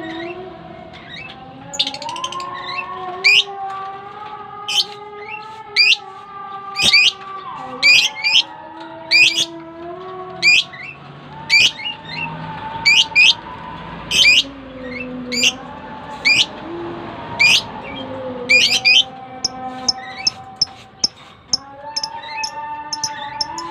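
Budgerigars chirping: sharp, high chirps repeated about once a second, over a faint background melody.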